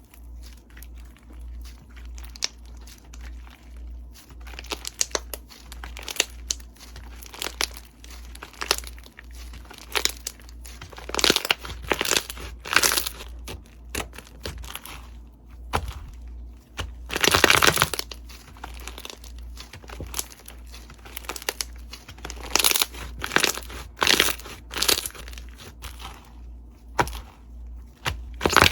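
Slime being squeezed and pressed by hand, giving irregular crackling and crunching pops that come in clusters, the loudest burst a little past the middle.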